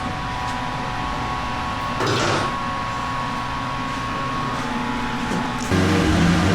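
A steady mechanical hum with a faint whine and a brief whoosh about two seconds in. Near the end a Kawasaki ZX-4RR's inline-four engine cuts in suddenly and loudly, running on the dyno.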